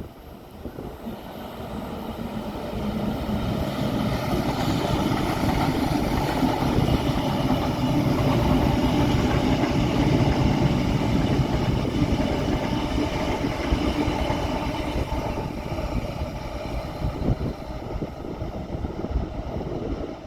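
A train passing by: its rumble swells over the first few seconds, is loudest around the middle and slowly fades toward the end.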